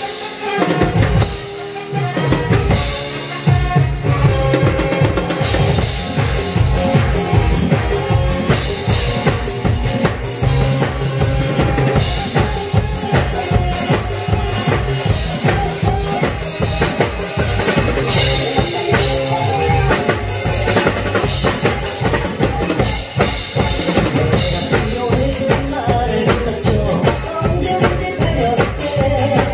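Instrumental music driven by fast, dense drumming, bass drum and snare strikes over a steady bass line, with no singing. The drumming drops away briefly about two seconds in, then picks up again.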